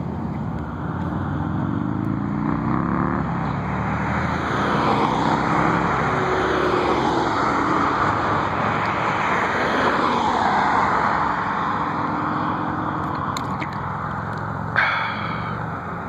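Jet airliner's engines passing overhead: a broad rushing roar that swells, is loudest in the middle and eases off, with a pitch that slides downward. A short sharp sound comes near the end.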